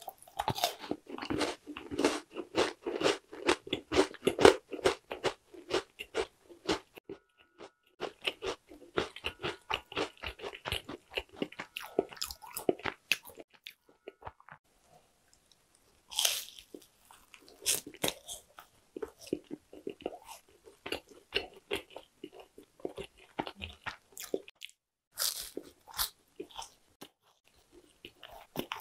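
Close-up crunchy chewing of Korean traditional sweets, dense for the first several seconds. Two sharp, crisp bites come about halfway through and near the end, biting into a puffed-rice yugwa stick, and more crunchy chewing follows each one.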